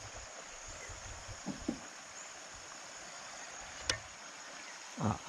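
River water running steadily, a constant rushing sound; a single sharp click about four seconds in.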